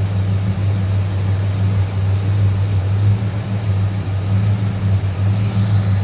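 2002 Ford F-150's engine idling with a steady, even low hum, left running to relearn its idle after the computer had been unplugged.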